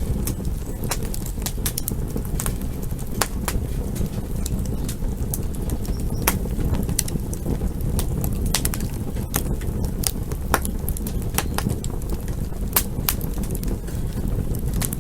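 Campfire burning: a steady low rush of flames under frequent, irregular sharp crackles and pops from the burning wood.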